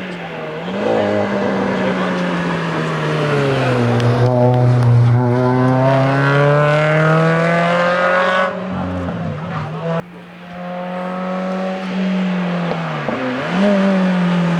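Renault Clio 1.8 16V rally car's four-cylinder engine under hard acceleration. Its pitch climbs through a gear and drops sharply at a shift about eight and a half seconds in, then climbs and drops again.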